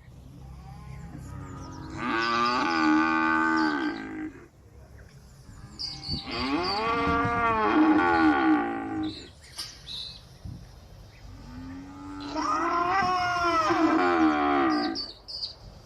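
Cow mooing: three long moos, each about three seconds long and rising then falling in pitch, starting about two, six and twelve seconds in.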